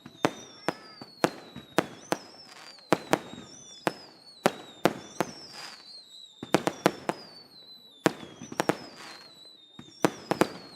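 Daytime fireworks display: sharp bangs going off irregularly, singly and in quick clusters, over high whistling tones that slide slowly down in pitch.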